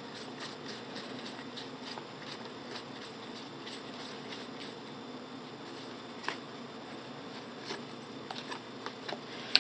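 Trading cards being handled and flipped through by hand: faint, irregular small clicks and flicks over a steady low room hum, with a slightly sharper tick about six seconds in and another near the end.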